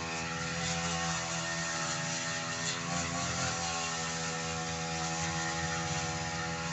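Two-stroke brush cutter engine running steadily while cutting thick grass.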